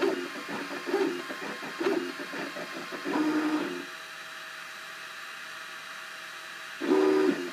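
Cubify 3D printer's stepper motors driving the print head, giving short pitched whines about once a second. A quieter steady hum follows for about three seconds, then a louder move near the end.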